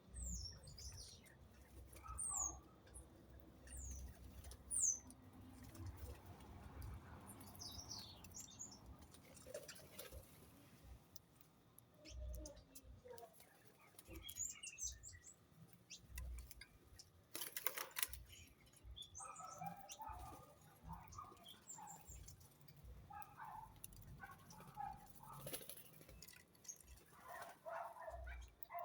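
Small birds chirping at intervals: short, high, falling chirps and softer calls, with faint low thumps among them.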